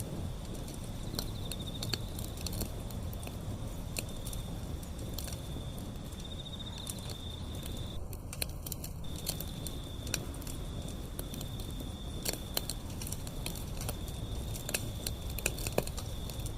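Wood fire burning: a steady low rumble of flame with frequent sharp crackles and pops of burning wood scattered irregularly throughout.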